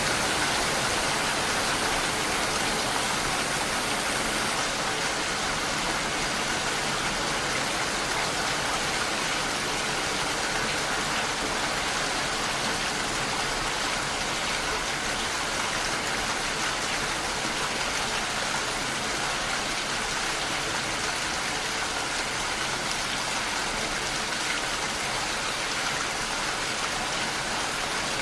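Steady, even rain, a continuous wash of falling water with no distinct drops standing out; the hiss at the top thins slightly about four and a half seconds in.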